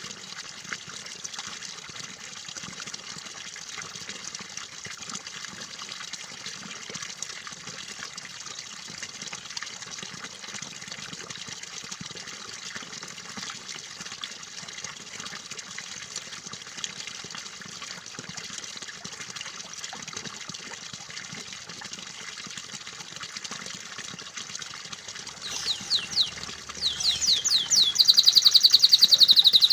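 Steady trickling, splashing water. Near the end a domestic canary breaks in loudly with a rapid trill of quick, repeated down-sweeping notes, then a fast buzzing roll, much louder than the water.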